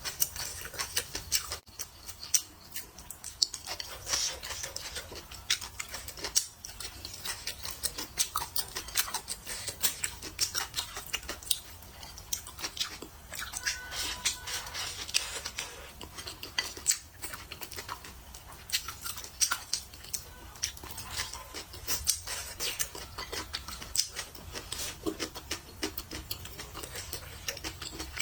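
Close-up eating sounds: chewing, with utensils clicking and tapping against a bowl in many irregular sharp clicks.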